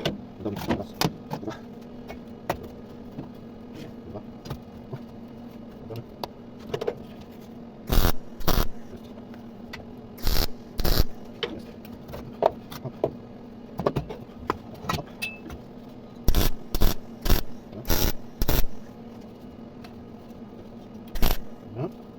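Sharp metallic knocks and clanks, several in quick pairs and a run of five in the middle, over a steady low hum.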